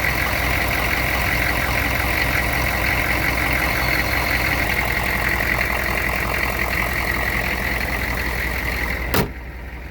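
1998 Chevrolet 2500's 6.5-litre turbo-diesel V8 idling steadily, with a sharp click about nine seconds in, after which the sound is quieter.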